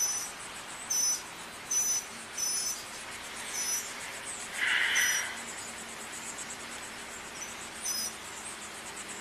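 Short high-pitched chirps repeating about once a second over a faint steady high hiss, typical of outdoor insects or birds, with one brief louder call about halfway through.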